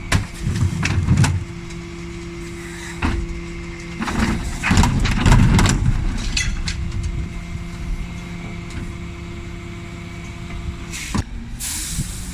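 Bin lorry engine running steadily while the bin lift works, with knocks and a long clattering stretch of a bin being tipped and banged out. A short hiss of air comes near the end.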